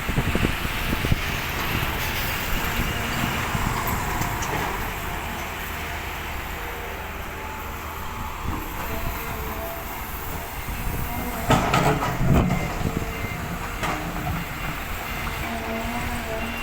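Earthmoving machine's engine running steadily, with a burst of loud clanking and rattling about two thirds of the way in.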